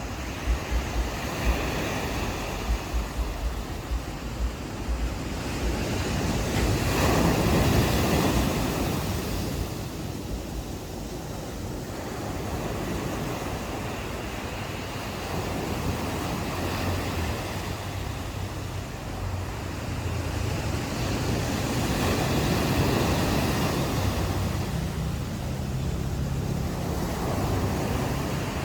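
Ocean surf washing onto the shore, swelling and easing in two slow surges. Wind buffets the microphone in the first couple of seconds.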